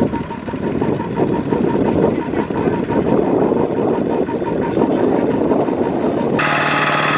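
Tractor engine running, a rough, dense drone. About six seconds in it cuts abruptly to a steadier engine hum with a clear pitch.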